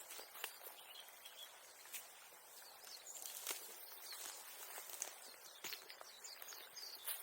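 Faint, scattered crackles and light knocks at an uneven pace, with a few faint bird chirps.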